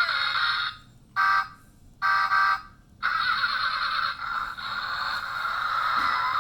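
Tinny electronic sounds from a toy sports car's small speaker. A song clip ends abruptly, then two short buzzy electronic bursts play. From about three seconds in, a steady car-engine sound effect runs on.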